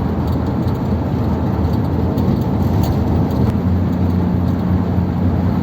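Ford Thunderbird's engine running steadily under way, with road noise, heard from inside the cabin while driving.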